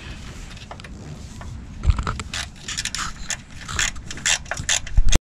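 Metal tools and parts clinking, scraping and knocking during hand work on an engine, with a run of sharp knocks in the second half, the loudest near the end; the sound cuts off suddenly just before the end.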